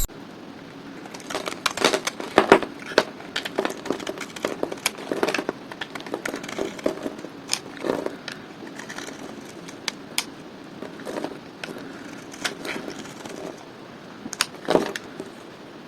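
Dry bar soap being cut, crackling and crunching in many small irregular snaps, with a denser run of snaps about two seconds in and one sharp snap near the end.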